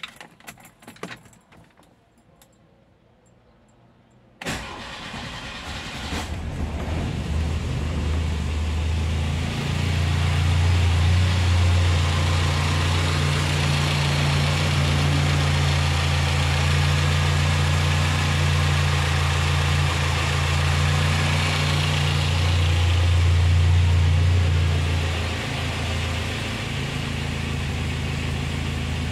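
Lancia Fulvia's Group 4-tuned 1401 cc narrow-angle V4, warm, fires about four and a half seconds in after a few light clicks, then idles steadily. It is a little quieter for the last few seconds.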